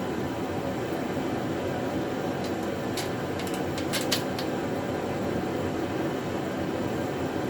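A steady mechanical hum, like a fan or air conditioner running, with a quick cluster of small clicks and clinks about three to four seconds in, typical of metal cart parts or tools being handled.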